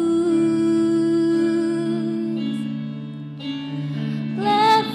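Slow worship song: sustained chords and a held note, with a singing voice rising in pitch near the end.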